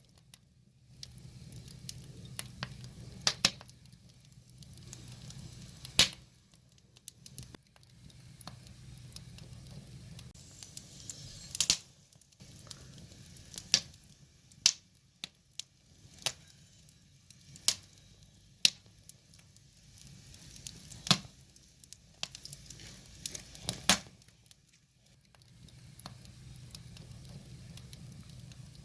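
Wood fire crackling, with irregular sharp pops and snaps, some much louder than others, over a soft hiss of burning logs. A low hum sits underneath for the first ten seconds and comes back near the end.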